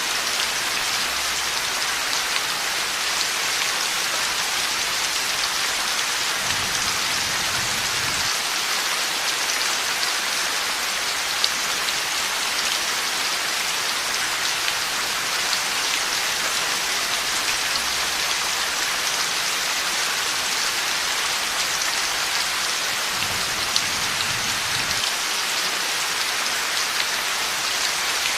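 Heavy rain falling steadily, a dense even hiss of drops with scattered small ticks. Two faint low rumbles of distant thunder come about seven seconds in and again about twenty-three seconds in.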